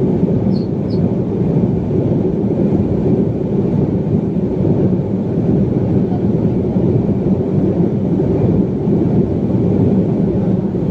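Steady low roar of a BAe 146 airliner's four turbofan engines and airflow, unchanging throughout. Two short faint high chirps sound close together near the start.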